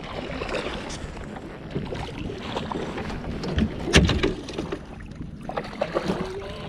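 Wind buffeting the microphone over water and kayak handling noises, with small clicks throughout and a sharp knock about four seconds in.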